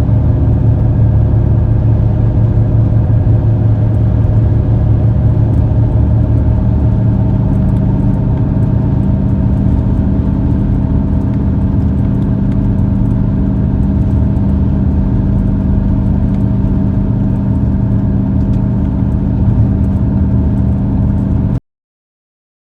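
Steady engine and road noise of a moving car: a low, even hum with a few held tones. It cuts off suddenly about a second before the end.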